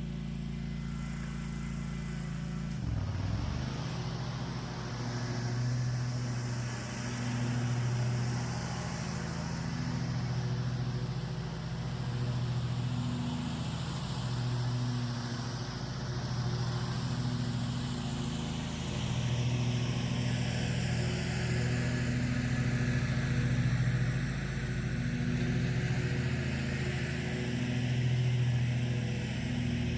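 Small petrol engine of a power trimming tool running steadily, its revs swelling and easing every couple of seconds as it works through the branches.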